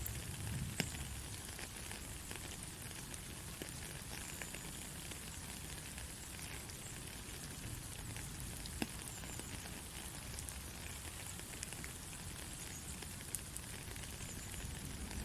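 Steady gentle rain falling, an even hiss with scattered drop ticks, a few sharper drips standing out about a second in and again near nine seconds.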